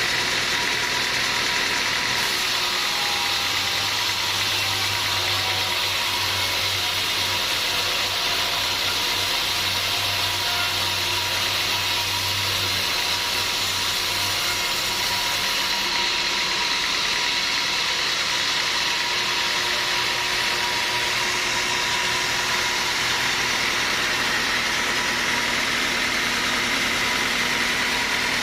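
Sawmill machinery running steadily, a constant mechanical noise with a steady whine; a low hum joins for several seconds in the first half.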